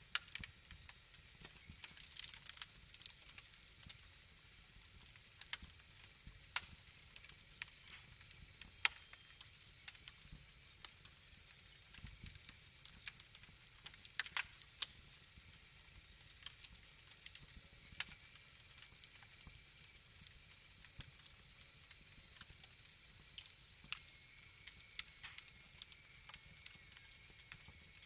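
Wood fire crackling: irregular sharp pops and snaps over a soft hiss, with a faint thin whistle coming in near the end.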